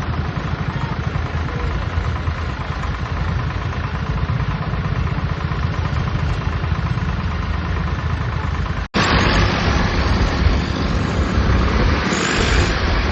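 Swaraj tractor diesel engine running, with a rapid low pulsing of its firing. About nine seconds in there is a brief break, then the engine sound returns louder, mixed with a rushing noise.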